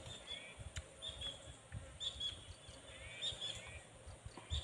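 A bird calling again and again: five short, high chirping calls, roughly one a second, over faint low bumps.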